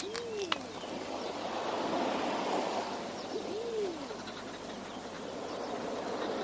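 Two low hooting animal calls about three seconds apart, each a brief rise and fall in pitch, over a steady rushing background ambience.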